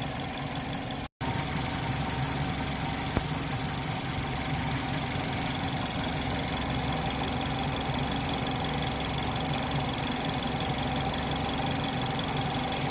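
Chevrolet HHR four-cylinder engine idling steadily at operating temperature while its cooling system is being bled of air. The sound cuts out completely for a moment about a second in.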